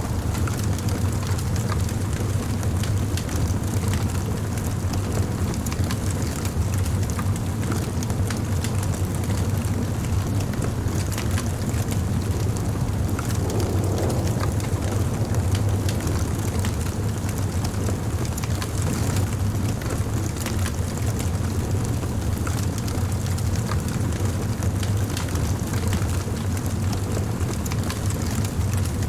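Wood fire burning steadily: a low rumble of flames with many small crackles and pops scattered throughout.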